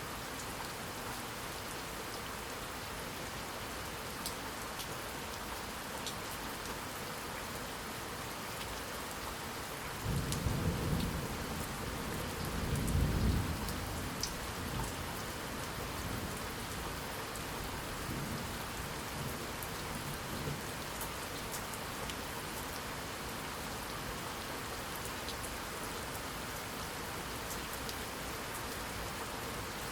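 Steady rain falling. About a third of the way in, a low rumble of thunder swells twice and fades over several seconds, with a fainter echo of it a few seconds later.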